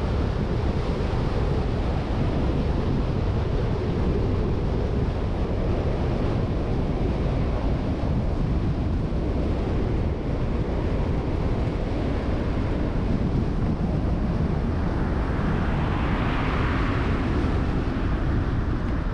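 Wind buffeting the microphone on a moving bicycle: a steady low rush, with a hiss that swells and fades about sixteen seconds in.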